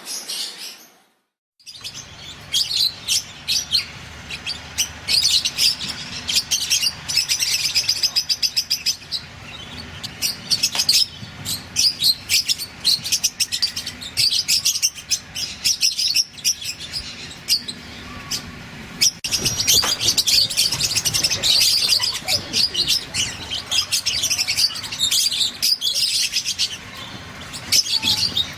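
Lovebirds chirping in rapid, high, shrill notes, starting after a brief silence about a second in.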